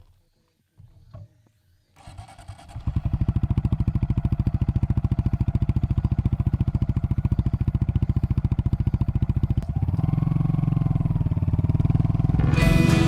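A small single-cylinder motorcycle engine starts about two seconds in and idles with an even, pulsing beat. About ten seconds in it changes to a fuller, louder note, and music comes in near the end.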